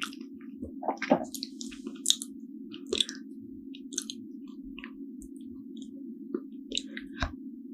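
Close-miked chewing of a soft steamed bun (hoppang): irregular wet smacks and clicks of the mouth, the loudest about a second in, over a steady low hum.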